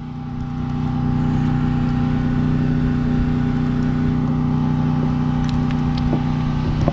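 Steady engine-like hum with a constant low pitch, holding level throughout, with a few faint light clicks near the end.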